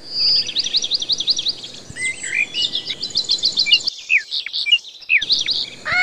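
Birds chirping and whistling: rapid runs of high, repeated chirps, then scattered whistled notes, with a short, lower call near the end.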